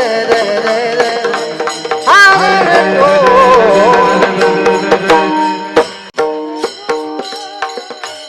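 Devotional bhajan music: held harmonium notes under regular tabla strikes, with a sliding, wavering sung line through the first five seconds. About six seconds in the singing stops and the held notes and drum strikes go on more softly.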